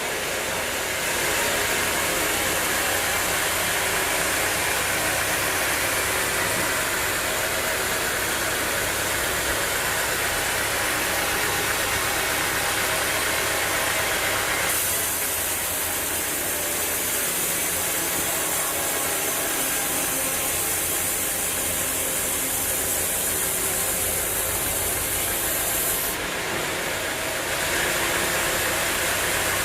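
Sawmill machinery running: a steady engine-driven noise that changes in tone about halfway through and again near the end.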